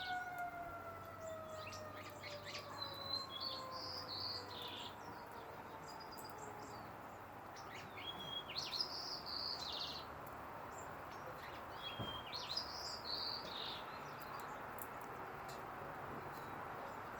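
Bird calling in bursts of short, high chirping calls, three or four groups several seconds apart. Over the first several seconds a distant siren-like tone slowly falls in pitch and fades out.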